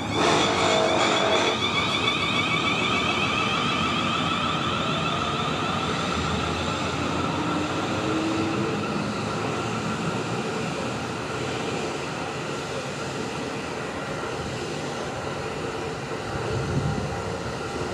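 Electric multiple-unit train running on the line, a rail rumble with a steady high whine over it, slowly getting quieter.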